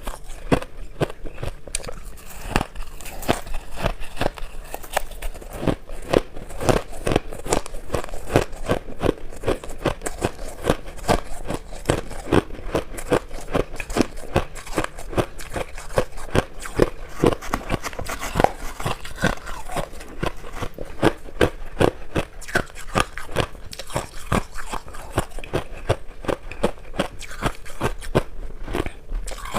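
Shaved ice being bitten and chewed, a steady run of crisp crunches, several a second.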